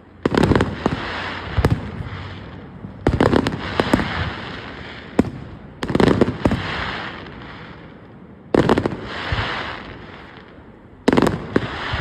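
Aerial fireworks shells bursting: a run of sharp bangs, single or in quick clusters, every one to three seconds, each trailing off in a fading rush of crackle and echo.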